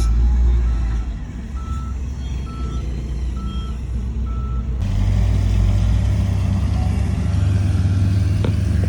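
Heavy diesel earthmoving equipment running, with a reversing alarm beeping about once a second, six beeps. About five seconds in the sound changes abruptly to a steady, deeper engine hum without beeps.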